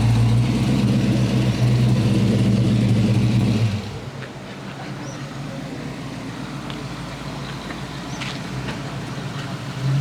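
A car engine with a loud exhaust running at a steady low note, then dropping away suddenly about four seconds in, leaving quieter background noise.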